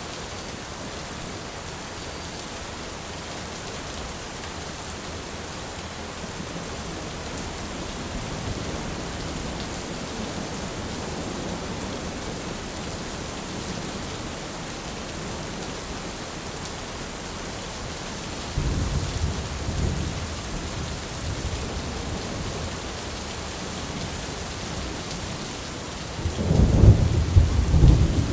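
Thunderstorm: steady rain with low rolling thunder, a louder rumble about two-thirds of the way in and the loudest thunder clap rumbling near the end.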